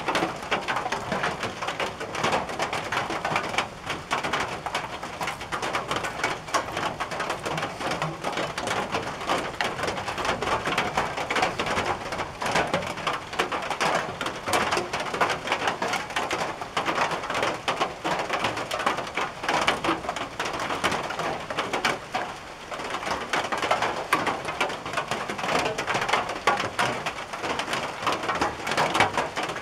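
Rain falling on a tin roof: a dense, steady patter of drops.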